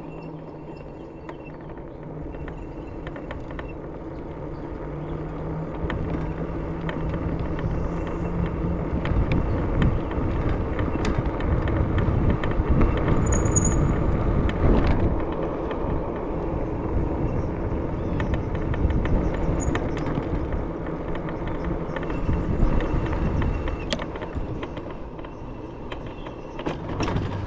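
Pickup truck driving along a road: steady engine and tyre rumble that grows louder through the middle, with many small rattles and clicks.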